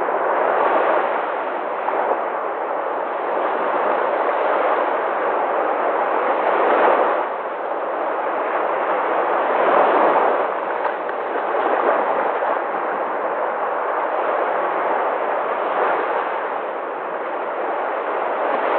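Sea waves breaking on a shore: a continuous rush of surf that swells louder as a wave breaks, about four times.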